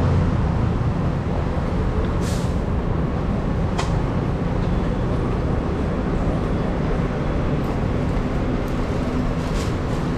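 Steady street traffic noise with a continuous low engine rumble and a few faint clicks.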